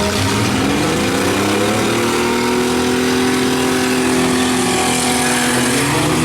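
Engines of compact pickup trucks and vans revving hard in a demolition derby. One engine's pitch climbs over the first two seconds and holds high, dips about five and a half seconds in and climbs again, with other engines running underneath.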